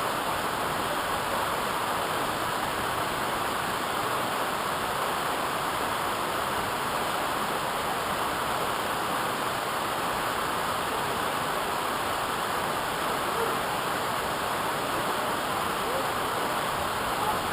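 Steady rushing of water falling at a waterfall, an even roar that holds without a break.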